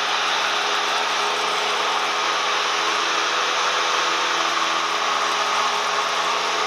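Cessna 172M's four-cylinder Lycoming piston engine and propeller running steadily at constant power, a continuous drone with no change in pitch or level.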